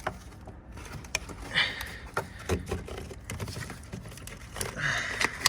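Hands working in an engine bay, with scattered light clicks and rattles of plastic hose fittings and tools and a few brief rustling bursts, the loudest about a second and a half in and near the end.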